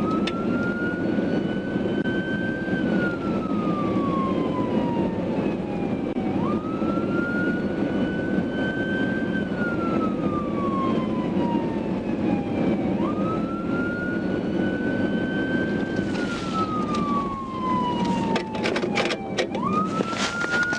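Police car siren on a slow wail: each cycle jumps up quickly, climbs a little, then falls slowly over about four seconds, repeating roughly every six and a half seconds. It sounds over steady road and engine noise from a fast-moving car, with sharp crackles near the end.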